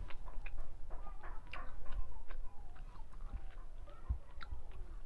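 Close-up eating sounds: a person chewing rice and fish, with many small wet clicks and fingers squishing food against a steel plate. A few low thumps, one at the start and two more about three to four seconds in.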